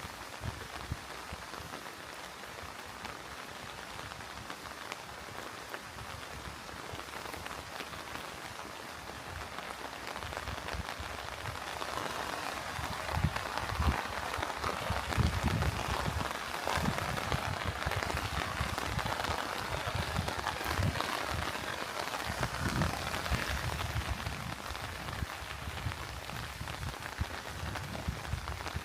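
Steady rain falling and pattering, growing louder about halfway through, with scattered low thuds.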